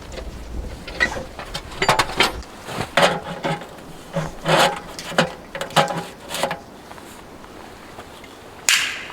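Irregular knocks and clanks of wood stove parts being handled and fitted together, some with a short metallic ring, and a brief scraping burst near the end. Wind buffets the microphone for the first couple of seconds.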